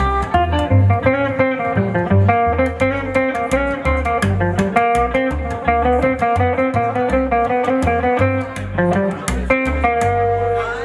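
A live band playing an instrumental break: a guitar carries the tune over a bass line and a steady drum beat.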